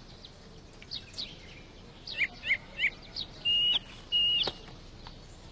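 Bird chirping: faint scattered chirps, then three quick chirps about two seconds in, followed by two short, steady whistled notes.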